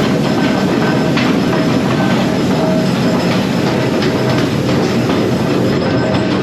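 Steady, loud din of forging-shop machinery, with faint irregular metallic clicks and clatter over it.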